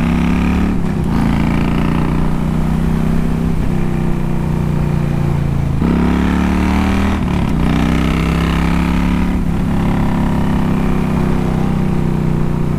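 Harley-Davidson V-twin motorcycle engine running at low speed, its pitch shifting with the throttle a few times.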